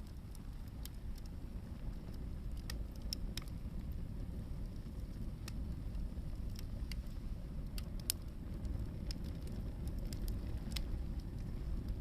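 Hardwood firewood burning in an open fire, crackling with irregular sharp pops over a steady low rumble.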